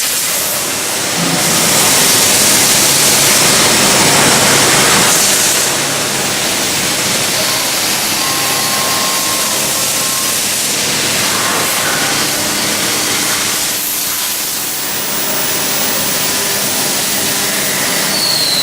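Steady, loud hiss of factory machinery with a faint hum underneath, swelling louder for a few seconds near the start.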